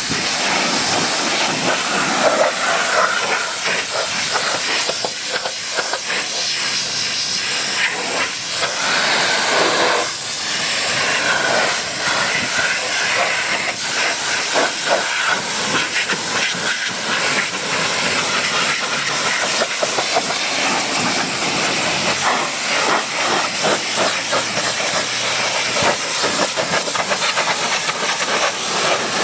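Pressure-washer jet spraying water onto a car: a loud, steady hiss that flickers as the spray moves across the surface.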